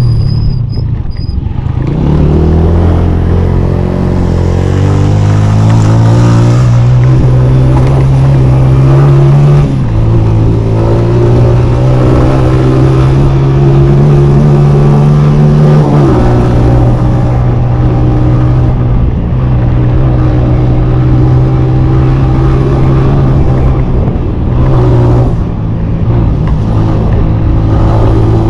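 Honda CG 125 motorcycle's single-cylinder four-stroke engine running under load, its pitch climbing as it accelerates and dropping at gear changes about 10 and 16 seconds in.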